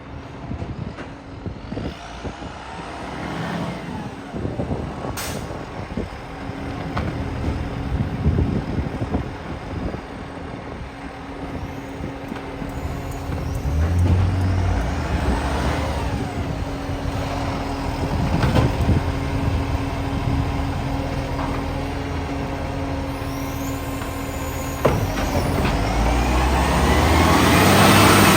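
Garbage truck engine running and working, with steady engine tones that rise and fall, two sharp sudden sounds, and the engine getting louder near the end. The truck has an exhaust leak.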